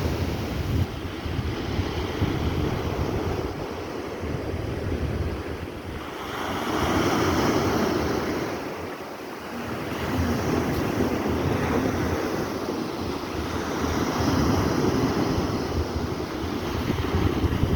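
Black Sea surf washing onto the shore, rising and falling in surges a few seconds apart, with wind rumbling on the microphone.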